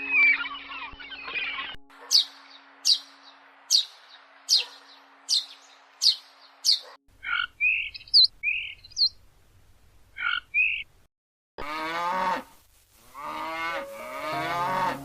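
A series of animal calls: bird chatter at first, then a regular run of sharp, high chirps a little under once a second, a few scattered short calls, and near the end two long, pitched calls from a larger animal.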